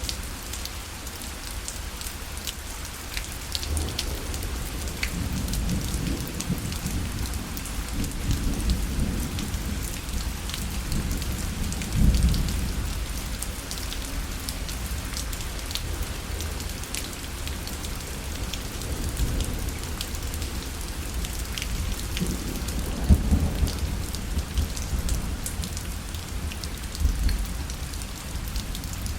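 Steady rain falling on a parasol, dotted with small drop ticks. Low thunder rumbles swell twice, about six to thirteen seconds in and again around twenty-three seconds.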